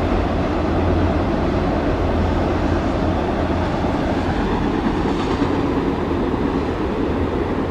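Freight train of autorack cars rolling past, a steady rumble of steel wheels on rail.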